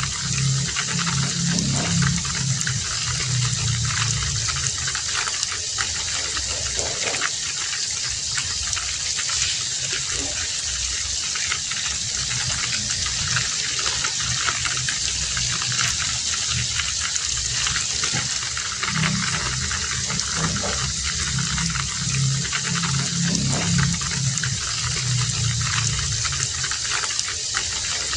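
Heavy rain falling in a steady hiss, with a low rumble underneath that swells and fades several times.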